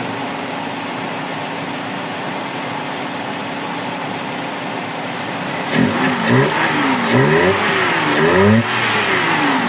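Suzuki Celerio's small three-cylinder petrol engine idling steadily, then revved with several quick throttle blips about six seconds in, the pitch rising and falling each time. The engine is being checked for a misfire, which the mechanic says is still there.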